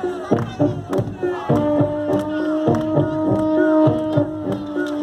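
Live festive music: frequent drum strikes under long held notes that come in about one and a half seconds in.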